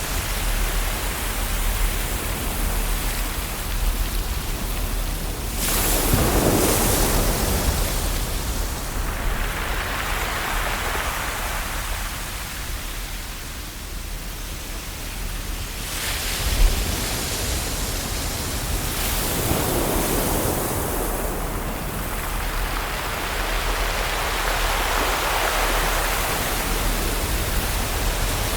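Ocean surf washing on a shore: a steady hiss of water, with a larger wave swelling and breaking about six seconds in and another about nineteen to twenty seconds in.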